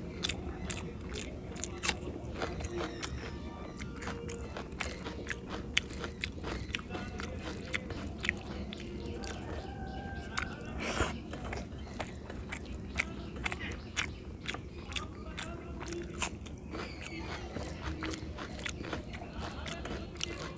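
A person chewing and smacking their lips while eating rice and fish curry by hand, with many sharp, irregular mouth clicks.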